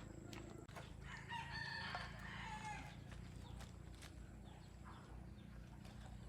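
A rooster crowing once, faintly, starting about a second in and lasting about a second and a half, its pitch dropping at the end.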